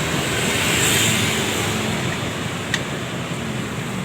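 Steady rush of passing road traffic, swelling about a second in, with a single sharp click near the end.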